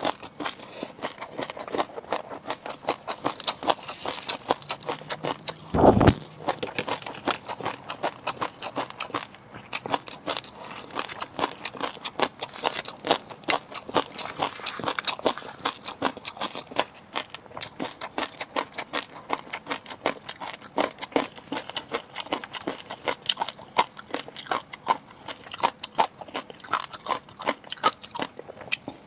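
Close-miked eating of seafood: rapid, dense crackling and crunching chews that keep going, with one heavy thump about six seconds in.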